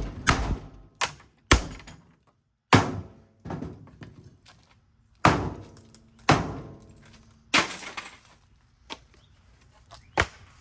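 A ceiling fan being broken apart by hand: about ten sharp cracks and clattering impacts, spread irregularly, some trailing off in a brief rattle.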